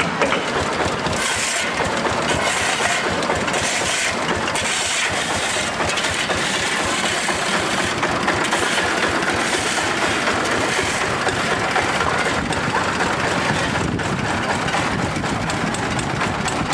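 An old excavator's engine running steadily and loudly while the machine works.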